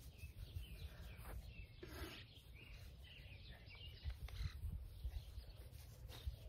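Faint bird calls, a few short scattered chirps, over a steady low wind rumble.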